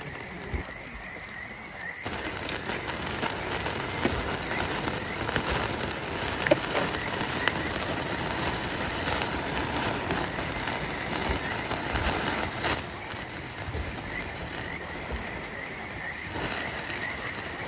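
Frogs calling in a steady run of short, repeated chirps. A loud hiss sets in abruptly about two seconds in, partly covers the calls, and falls away near the end, when the chirping stands out again.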